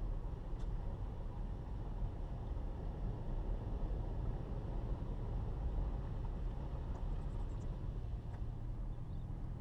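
Car running along the road, a steady low rumble of engine and road noise.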